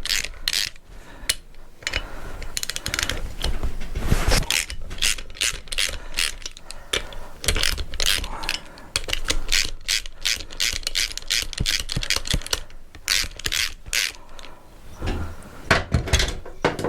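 Ratchet spanner clicking in repeated quick runs, working tight bolts loose on a motorcycle engine being stripped down.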